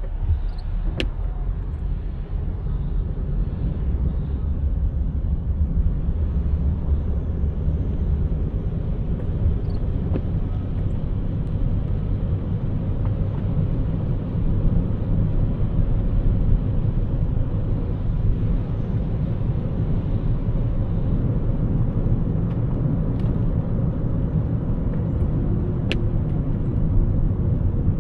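Car driving on a city road: a steady low rumble of tyres and engine, with a faint sharp click about a second in and another near the end.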